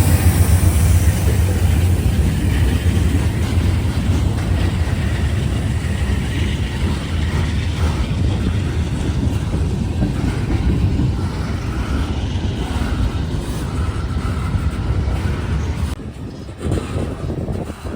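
Freight train passing: a diesel locomotive's low engine drone fades slowly while the cars rumble by. The sound drops off suddenly near the end.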